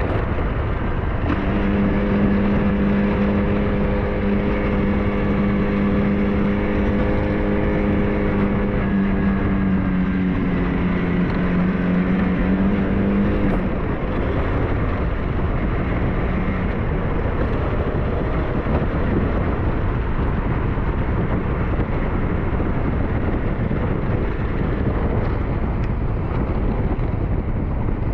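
SYM NH-T 200 motorcycle riding at a steady pace, with its engine and road and wind noise rushing over the microphone. For the first half a steady engine hum holds one pitch, dips slightly about ten seconds in, then fades into the noise around thirteen seconds in.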